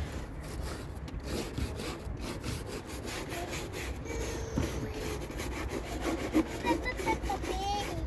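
A dirty car being scrubbed in repeated rubbing strokes, with wind rumbling on the microphone.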